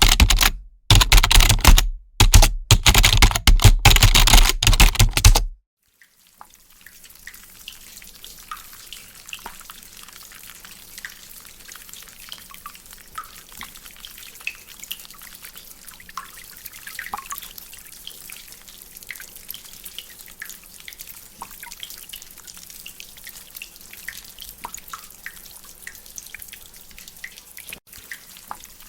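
For the first five seconds, loud, full-range noise cuts in and out several times, then stops. After that, rain drips from a drainpipe as scattered small drips over a steady, faint rain hiss.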